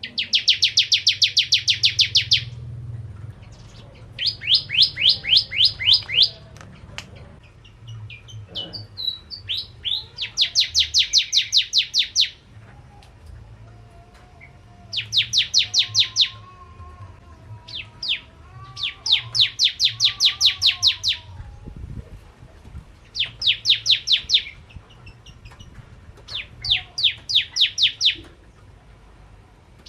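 Bar-winged prinia (Prenjak Jawa) singing vigorously: bout after bout of rapid, evenly repeated sharp chirps, each bout lasting about two seconds with short pauses between, around eight bouts in all.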